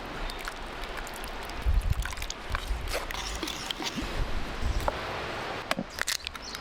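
Open wood fire crackling: scattered sharp pops over a steady hiss, with a few low rumbling thumps now and then.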